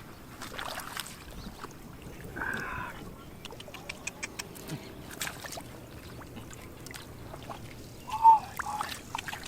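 Water sloshing and trickling, with scattered small splashes and clicks. There is a short pitched call about a quarter of the way in and a louder, brief one near the end.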